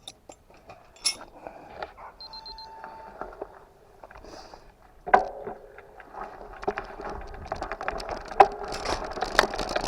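A bike rattling and knocking as it is ridden, sparse at first, then busier and louder from about five seconds in.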